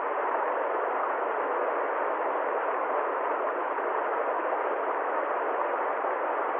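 A steady, even rushing noise that never changes, with no deep rumble and no hiss at the top.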